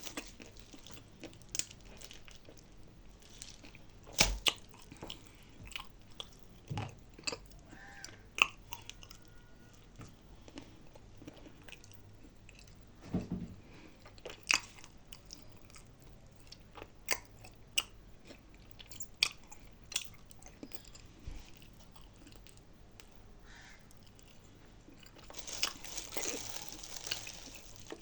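Close-miked chewing and crunching of dry nzu clay, with irregular sharp crunches and quiet stretches in between, and a denser burst of crunching near the end.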